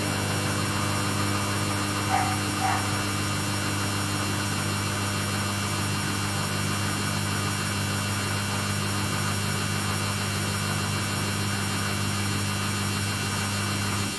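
Samsung front-load washing machine running in its rinse-and-spin cycle: a steady motor and drum hum. About two seconds in there are two short, brief higher-pitched sounds.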